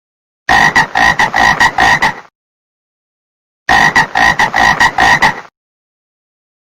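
Frog croaking: a fast run of about seven croaks lasting a couple of seconds, then the same run again after a pause of about a second and a half.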